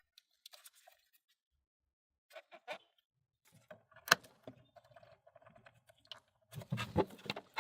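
Scattered small clicks and taps of parts and tools being handled on a workbench, with a louder cluster of knocks and rattling about seven seconds in.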